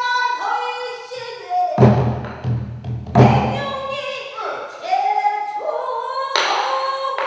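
Pansori singing: a solo voice sliding and bending between held notes, with a buk barrel drum giving deep strokes a few times in the first half and one sharp rim click near the end.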